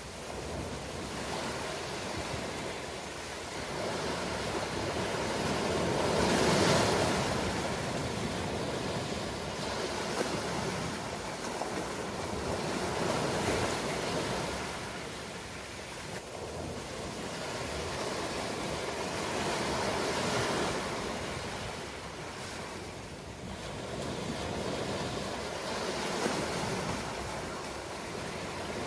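Ocean surf breaking and washing in, four waves swelling and fading about every six to seven seconds, the loudest about six seconds in.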